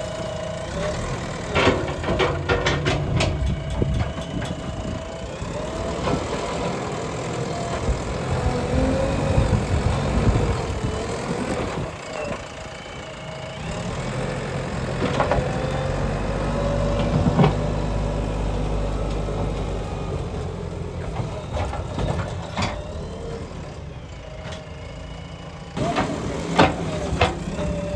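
Backhoe loader engine running and changing pitch as the machine works, with scattered knocks and clanks.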